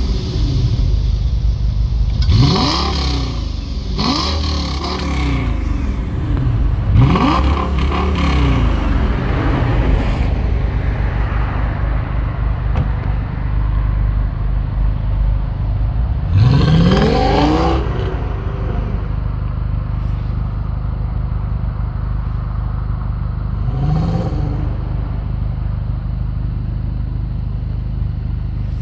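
Audi S8's 5.2-litre V10 exhaust, through a cat-back system with stock mufflers and an X-pipe, idling and being blipped several times: quick revs early on, the longest and highest rev about halfway through, and a small blip near the end, with a steady idle between.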